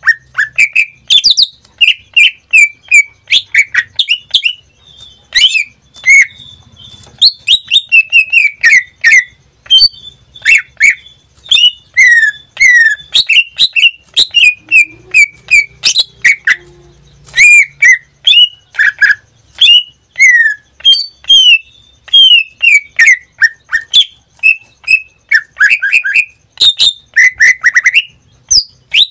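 Cucak ijo (leafbird, Chloropsis) singing: a fast, unbroken run of short, sharply sweeping whistled notes. The bird is in full song.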